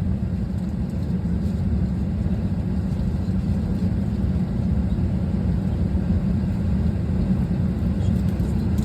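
Steady low rumble of an Airbus A320's cabin noise on the ground, heard from inside the passenger cabin.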